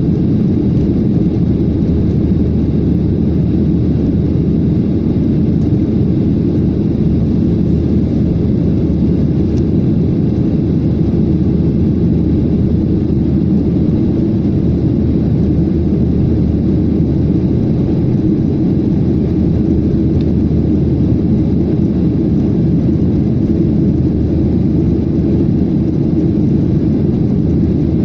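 Airliner cabin noise in flight after takeoff: a steady low rumble of the jet engines and rushing air, heard from inside the cabin.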